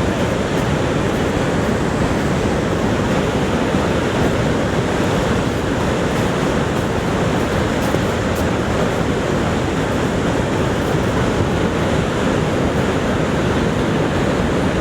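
The steady roar of Niagara Falls: a dense, unbroken rush of falling water, heaviest in the low range.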